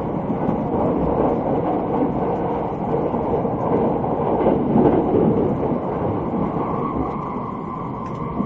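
Running noise heard inside a Thunderbird limited express electric train car: a steady low rumble of wheels on rail and the train underway, swelling a little midway.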